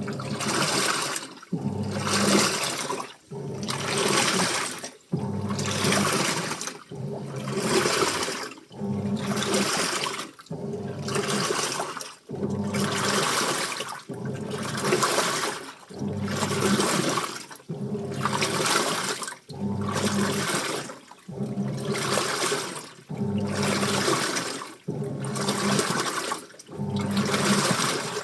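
Washing machine in its wash cycle, the drum turning the wet clothes and water in regular surges about every two seconds with short pauses between, a motor hum under each surge.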